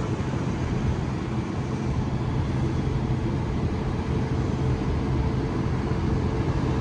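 Train running: a steady low rumble with a held engine hum, and a higher steady tone joining near the end.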